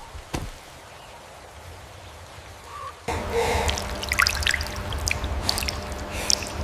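Rain with water dripping: soft and even at first, then about three seconds in it suddenly gets louder, with many scattered drips and splashes.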